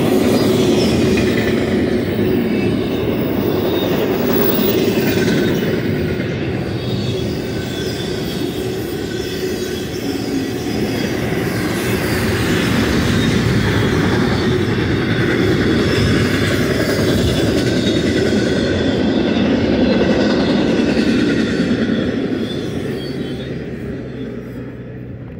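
Double-stack intermodal container cars of a fast BNSF freight train rolling past: a steady loud rumble of wheels on rail with thin high-pitched wheel squeal over it. The noise fades away near the end as the last cars pass.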